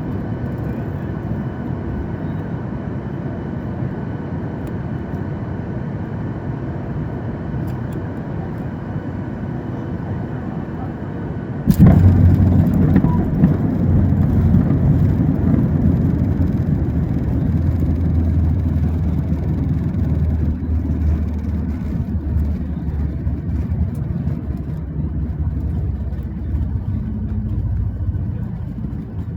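Cabin noise of a Boeing 737 MAX airliner on final approach, a steady hum. About twelve seconds in, a sudden thump as the wheels touch down on the runway, then a much louder low rumble and roar as the aircraft rolls out and slows.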